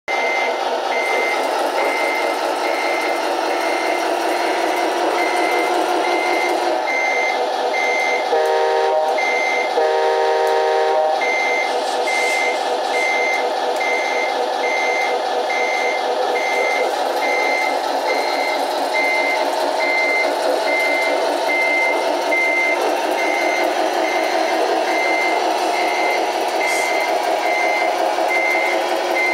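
RC Scania truck's sound module playing a running diesel engine with a reversing beeper, about two beeps a second. About a third of the way in, two short horn blasts sound over it.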